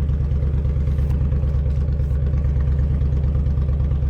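Motorcycle engine idling steadily, a low, even pulsing rumble.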